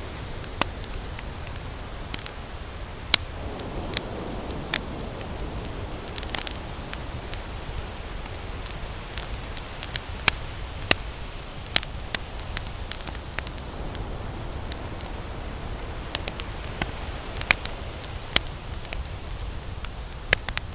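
Campfire crackling: irregular sharp pops and snaps of burning wood over a steady low rush.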